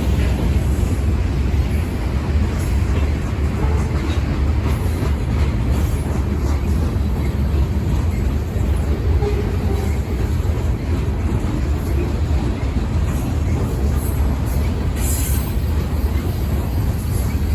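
Freight train cars rolling past: a steady, loud low rumble of wheels on rail, with a few faint clicks near the end.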